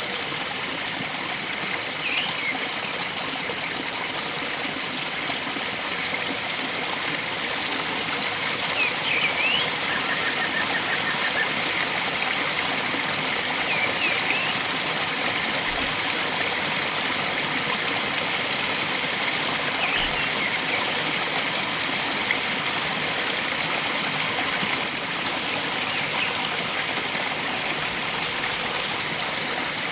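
Steady rush of flowing stream water, with brief faint bird chirps now and then and a short trill about ten seconds in.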